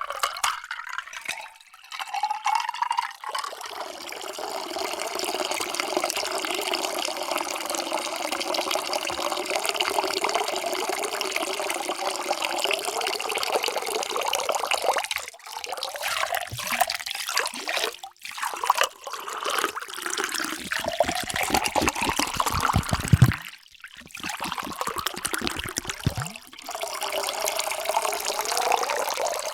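Water being poured into a vessel in several separate pours, each a steady splashing stream whose pitch rises as the vessel fills.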